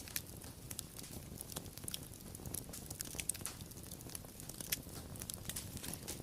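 Wood fire crackling: irregular sharp pops and snaps over a soft low rumble of burning, with a few louder pops, about three seconds in and near the end.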